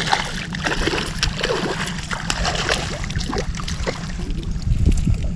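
Water lapping and splashing lightly against a fishing boat's hull in small irregular slaps, over a steady low wind rumble on the microphone.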